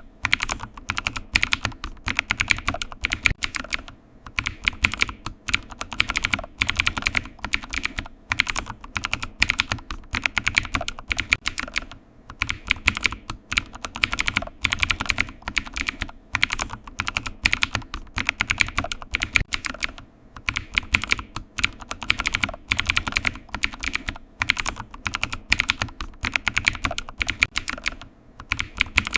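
Computer keyboard typing: rapid, continuous key clicks in quick bursts, with a few brief pauses.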